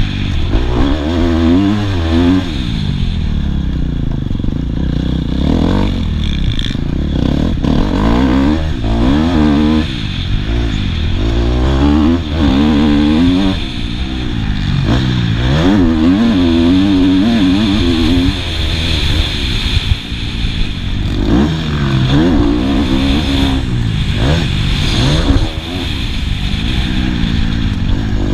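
Motocross bike engine revving hard, rising and falling in pitch again and again as the rider opens and closes the throttle and shifts through the track's straights and turns. Heard from the rider's helmet-mounted camera, with some rattling clatter from the bike.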